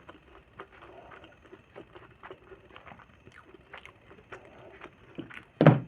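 Close-up eating sounds: chewing and lip-smacking clicks, a few a second, with one loud thump near the end.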